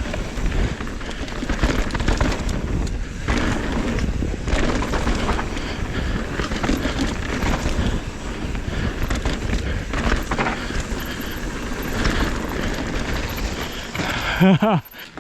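Mountain bike riding a dirt trail, heard from a GoPro mounted on the rider or bike: steady wind rush on the microphone with the tyres and bike rattling over the ground in quick knocks.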